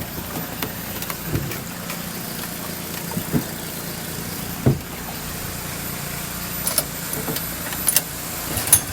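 An engine running steadily at low speed, with a few short knocks and clicks over it.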